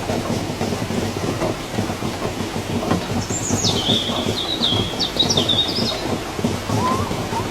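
Steady rain. About three seconds in, a bird whistles one falling note, then a few short chirps.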